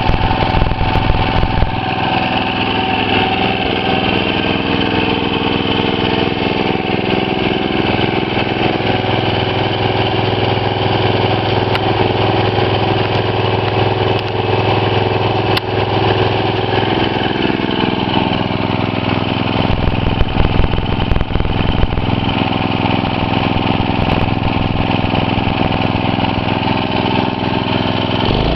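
Tiller's small gasoline engine running steadily after a carburetor rebuild (cleaned, rejetted, new gaskets), with a smooth, even note that shifts slightly about two seconds in and again past the middle. It sounds healthy: it is running perfect, like a new carburetor.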